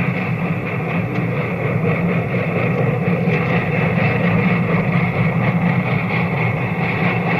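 Union Pacific Big Boy 4-8-8-4 articulated steam locomotive under way with a train: a steady low running sound with hiss over it.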